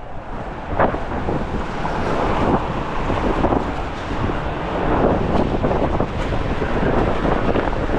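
Strong gusty wind buffeting the microphone, a heavy rushing roar that swells and eases with the gusts.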